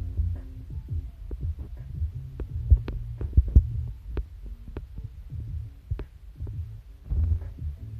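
Small battery-powered Daiso Petit Train E233-series toy train running on plastic track: a steady low motor hum with irregular clicks and knocks as the wheels cross track joints and points.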